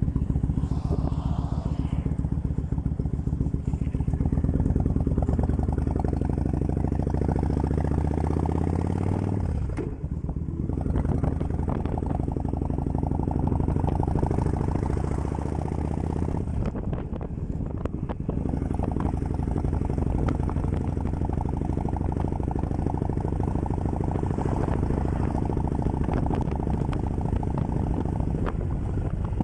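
Kawasaki Vulcan 1500 Classic's V-twin engine running steadily, with a brief dip in its sound about ten seconds in.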